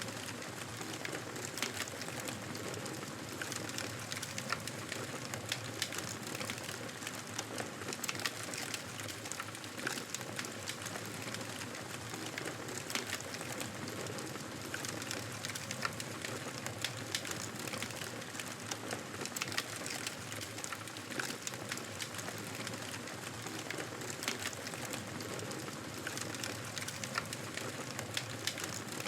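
Wood fire burning in a fireplace, crackling steadily with frequent sharp pops and snaps over a constant rush of flame.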